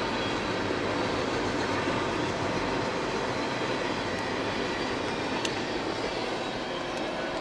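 A CSX manifest freight train's boxcars and tank cars rolling past at speed, a steady rumble and rattle of steel wheels on the rails.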